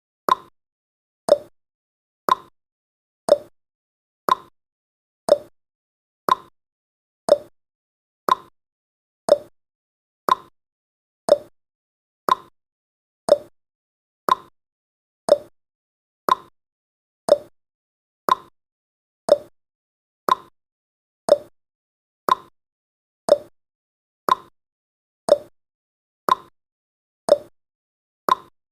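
Countdown timer's clock-tick sound effect: short, sharp ticks once a second, alternating between a lower and a higher tick like a tick-tock.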